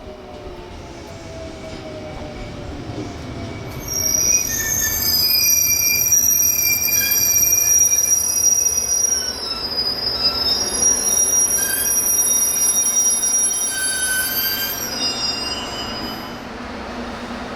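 Electric train slowing down, its motor whine falling in pitch, then loud, high-pitched wheel squeal that wavers and breaks up for about twelve seconds before fading.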